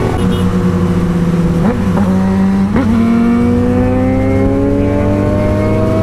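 Yamaha MT-09 SP's three-cylinder engine through an Akrapovic exhaust, heard on board while riding: two quick blips of the throttle, then a long, steady rise in revs as the bike accelerates.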